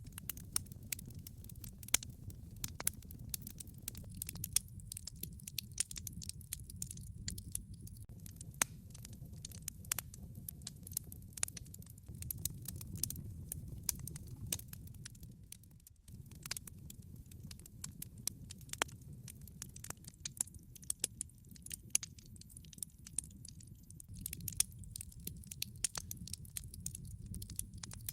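Wood log fire crackling: irregular sharp pops and snaps over a steady low noise of the burning logs.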